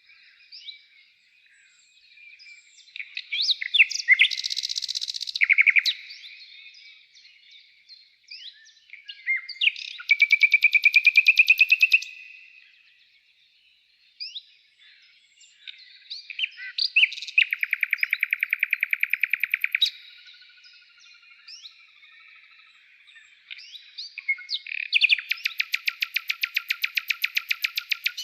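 Songbirds chirping, with a fast trill of about two to three seconds repeated three times, several seconds apart.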